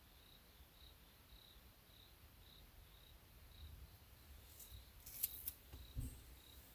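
A cricket chirping steadily in short high pulses, about two a second. A few sharp clicks come about five seconds in, then a soft knock.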